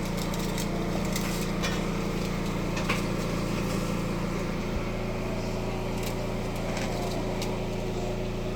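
Steady low mechanical hum from a motor or engine, running evenly, with a few faint light clicks.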